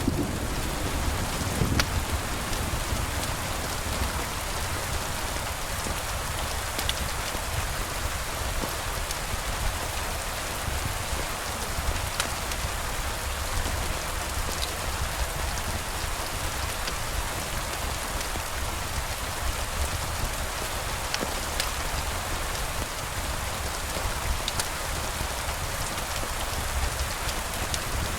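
Steady rain falling, an even hiss with a low rumble underneath and a few scattered sharp ticks of drops.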